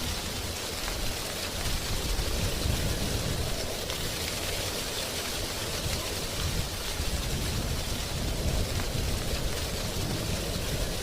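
Wind blowing through drying tree leaves: a steady, even rustle with a low rumble underneath that swells and eases.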